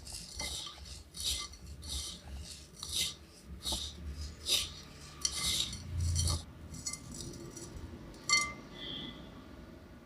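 Yellow grainy material crunching and jingling as it is worked in a clay pot, in a run of crisp scraping strokes about every half to three-quarters of a second. A sharper clink with a brief ring comes near the end, then quieter rustling.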